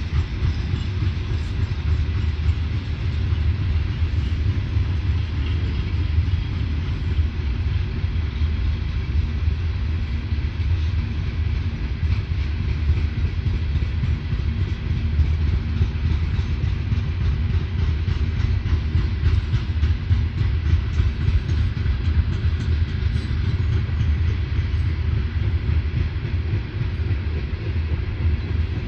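Coal hopper cars of a Norfolk Southern freight train rolling past: a steady low rumble with fast, uneven wheel clatter on the rails.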